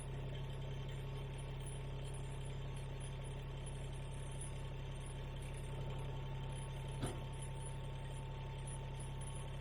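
An engine running steadily at a constant speed, with a thin steady whine above its drone. A single sharp knock comes about seven seconds in.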